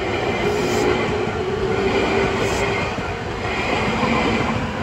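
Nankai electric commuter train passing close by: a steady rumble of wheels on the rails with a faint drawn-out whine from the running gear, and two brief hissing brushes about a second and two and a half seconds in.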